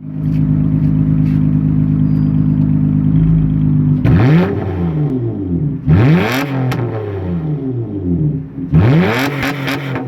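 Honda Accord 3.5-litre V6 with mufflers and resonators deleted, idling steadily, then blipped three times, each rev rising quickly and falling back to idle; the open, unmuffled exhaust note is loud.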